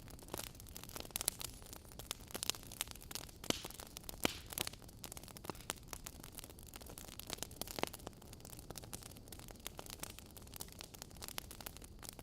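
Wood fire burning in a fireplace: a low steady hiss with frequent sharp, irregular crackles and pops from the burning logs.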